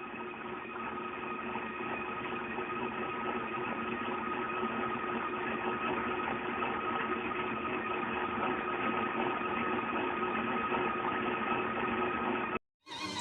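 A small motor running steadily, giving an even mechanical hum with a few fixed tones. It stops abruptly near the end.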